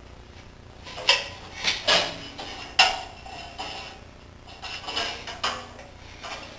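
Tools and containers being handled on a work surface: a string of sharp clinks and knocks in the first half, then a second cluster of lighter clinks and scrapes about five seconds in.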